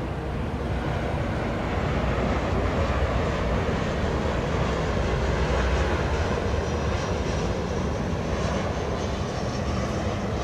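Downtown city traffic noise, a dense steady rumble that swells to a peak about halfway through as something loud passes, then eases slightly.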